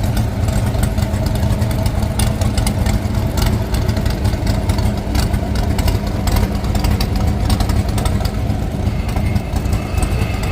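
Pulling truck's engine running steadily with a deep rumble, with scattered sharp ticks over it.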